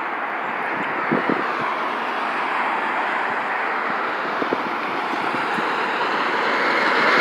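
International semi truck approaching on the road, a steady rush of engine and tyre noise that grows louder near the end as it draws close.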